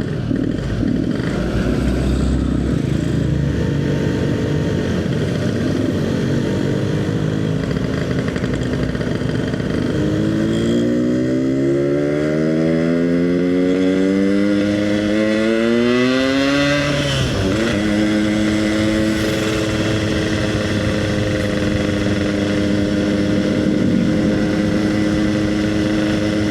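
Yamaha RX-King's single-cylinder two-stroke engine with an EnzyProject aftermarket exhaust, heard on the move. The note climbs steadily in pitch from about ten seconds in as the bike accelerates, drops sharply at a gear change near seventeen seconds, then holds a steady cruising note.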